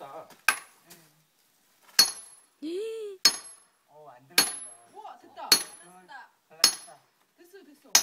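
A hammer striking metal while splitting firewood: seven sharp blows about a second apart, each ending in a bright metallic clink. Short vocal sounds come between the blows.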